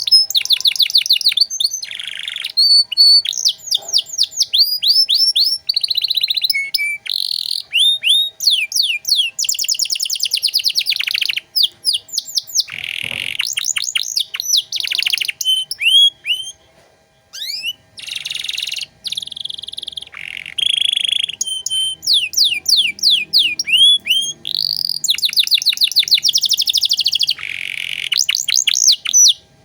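Domestic canary singing a long, varied song of fast trills and rolls built from rapid repeated down-slurred notes, with a short pause about halfway through.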